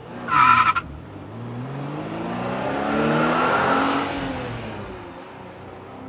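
A car's tyres squeal briefly, then its engine accelerates with a rising pitch, swells and fades away.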